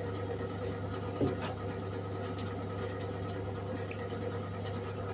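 SIP MIG welder humming steadily while switched on, with a few light clicks and taps, the first about a second in and a couple more near the end.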